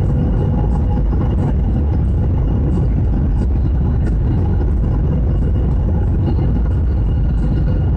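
Steady loud rumble of a jet airliner, with a faint steady whine above it.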